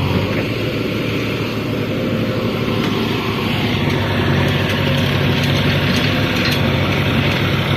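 Heavy diesel engine of a backhoe loader or tractor running steadily, getting a little louder about halfway through.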